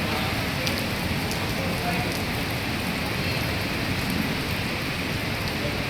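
Rain falling steadily: a dense, even hiss of drops hitting the ground and nearby surfaces, with the odd sharper drop tick.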